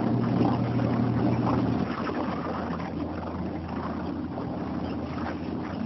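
Small motorboat engine running steadily at low speed, with wind noise on the microphone. Its hum drops a little about two seconds in.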